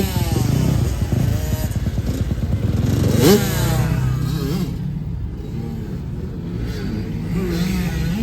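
Dirt bike engine running and being revved, its pitch sweeping sharply up at the start and again about three seconds in, then wavering lower.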